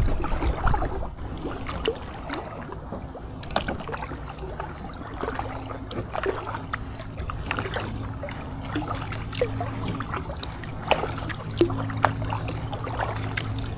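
Kayak paddle strokes in the water, with irregular splashes and drips from the paddle blades. A faint low steady hum runs underneath in the second half.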